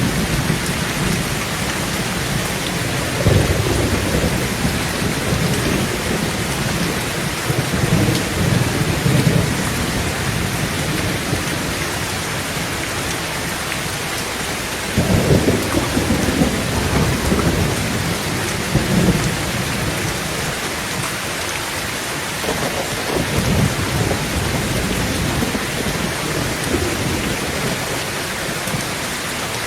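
Heavy rain falling steadily on a tin tent roof, with thunder rumbling several times, loudest about halfway through.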